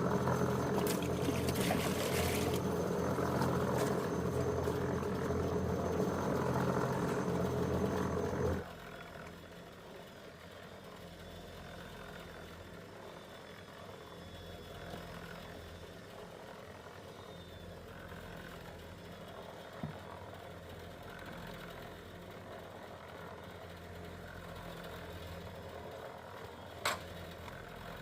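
An engine running steadily for about eight seconds, then cutting off abruptly. A quieter low hum follows, with two sharp clicks near the end.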